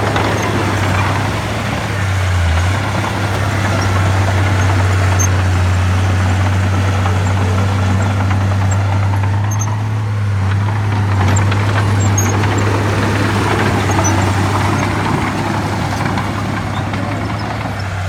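Heavy diesel engine of earthmoving machinery running steadily, a deep even hum under a broad rumble.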